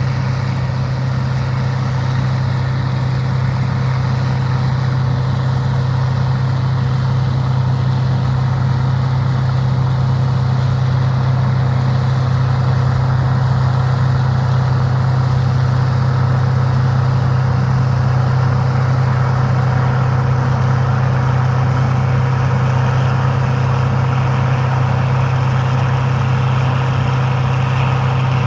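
Farm machine's engine running at a steady speed, a constant low drone with no change in pitch.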